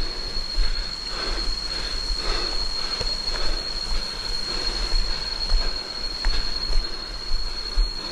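A steady high-pitched insect drone, typical of jungle cicadas, holds one unbroken tone over an even rushing of waterfall water, with a low wind rumble on the microphone.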